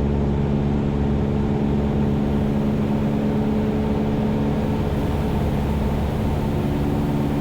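Cessna 172's piston engine and propeller droning steadily in flight, heard from inside the cockpit as an even hum of several low tones over a rushing noise.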